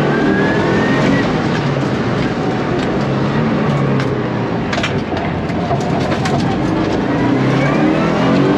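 Subaru Impreza STI rally car's turbocharged flat-four engine running while driving, heard from inside the cabin. The engine pitch rises as it accelerates in the first second, stays steadier through the middle and climbs again near the end, with a few sharp clicks about halfway through.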